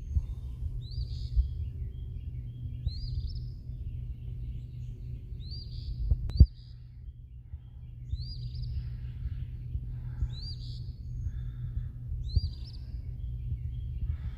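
A songbird repeating a short, high, rising call about every two seconds, seven times, over a steady low rumble of heavy breathing close to the microphone. A single sharp knock sounds about six seconds in.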